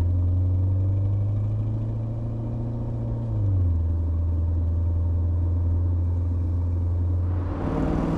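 The Mercedes-AMG GT 63's 4.0-litre twin-turbo V8 runs at steady low revs with a deep, even drone. Its pitch drops slightly about three and a half seconds in. Near the end, the sound brightens as the revs start to climb.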